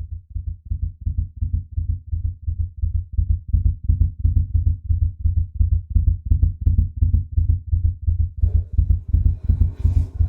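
Heartbeat-like low thumping at a quick, even pace of about four beats a second, fading in over the first few seconds; near the end a hissing, rushing layer joins it.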